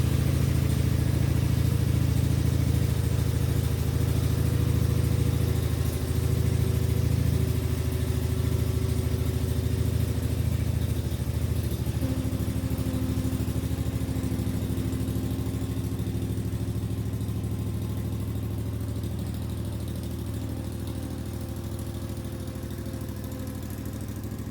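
Engine fitted with open exhaust stacks idling steadily on its first run since December, getting gradually a little quieter toward the end.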